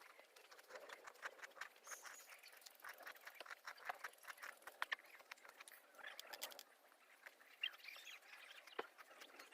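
Wood fire crackling in a fire pit, with faint, irregular pops and snaps, a few sharper ones around the middle.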